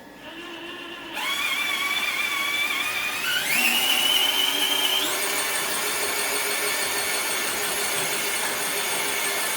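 Traxxas TRX-4 Bronco RC crawler pulling a weighted sled: its electric motor and geared drivetrain whine under load. The whine starts about a second in, climbs in pitch about three seconds in, then holds steady and high.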